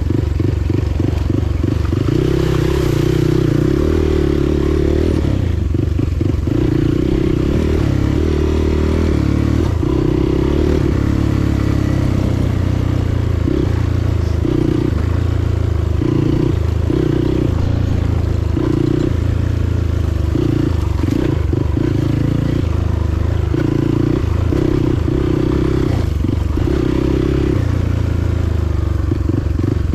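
Motorcycle engine running while riding, its note shifting up and down over a steady rush of wind noise.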